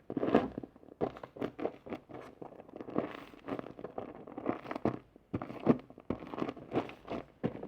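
A busy, irregular run of short crinkling, scraping and crunching sounds, several a second, as of something being handled or rustled close to the microphone.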